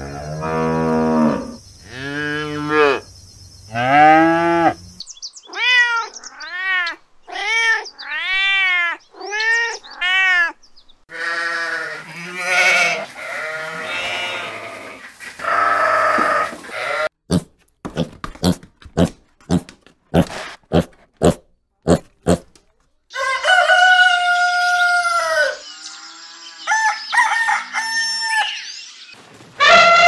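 A run of farm animal calls: cattle lowing three times, then sheep bleating over and over, then about a dozen sharp clicks, and in the last seconds a rooster crowing.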